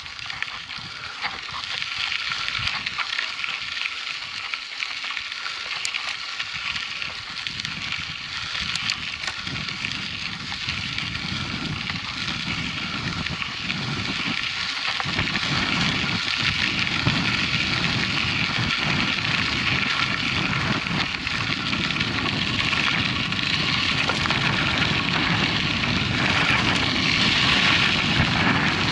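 Mountain bike riding on a dirt track: tyres crackling over gravel with wind rushing on the microphone, the low rumble growing louder from about halfway through as speed picks up.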